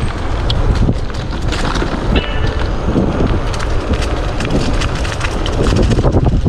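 Wind buffeting the microphone of a helmet or bike-mounted action camera on a moving e-bike, over the crackle and rattle of its tyres rolling across dry fallen leaves and twigs on a dirt trail. A brief thin squeak sounds about two seconds in.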